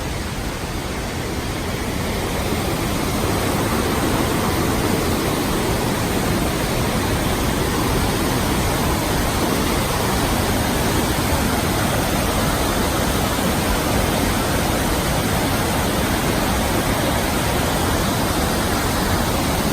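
Rushing water of a waterfall or river cascade, a loud steady roar that swells a little over the first few seconds and then holds.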